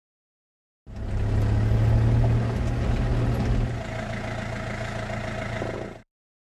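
Vehicle engine idling with a steady low hum; it starts abruptly about a second in. Near the middle it becomes quieter with a higher steady tone, then cuts off suddenly.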